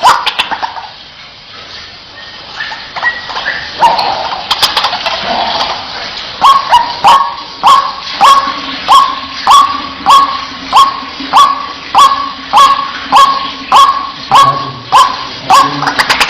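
White-breasted waterhen (ruak-ruak) calling: soft scattered notes at first, then from about six seconds in a loud, evenly repeated series of short call notes, nearly two a second.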